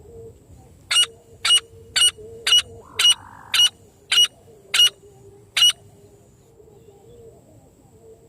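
Francolin (teetar) calling: a run of nine loud, sharp, harsh notes at about two a second, then stopping.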